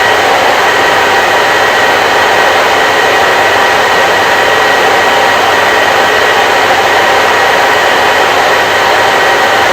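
Hair dryer running steadily, with an even hiss and a faint constant whine.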